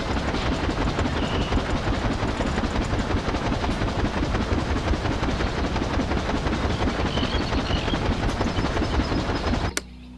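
A small motor-driven machine running with a fast, dense rattle, which cuts off suddenly near the end.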